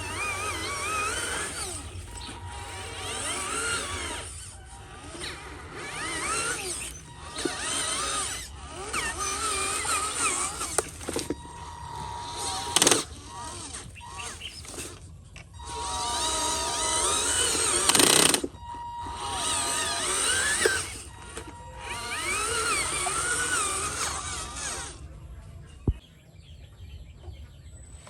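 Small electric motors of RC model construction machines whining in repeated spurts of about two seconds, the pitch wavering as they work, with a couple of sharp knocks partway through.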